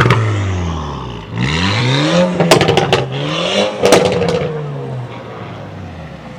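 Car engine revved hard twice, its pitch climbing and dropping each time, with a few sharp cracks about two and a half and four seconds in.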